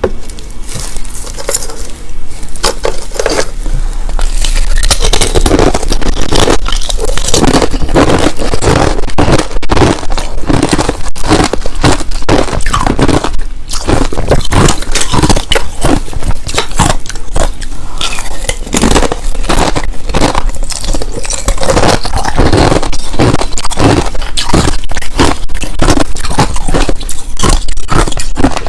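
Crushed ice, both clear and powdery, being bitten and chewed close to the microphone: a dense run of irregular crunches that gets thicker about five seconds in.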